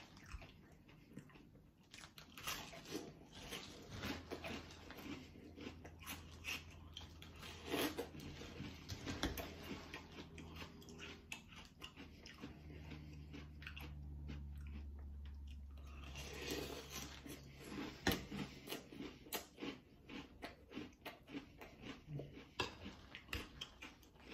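A person chewing mouthfuls of Cap'n Crunch Berries cereal soaked in milk, a steady run of crisp crunches.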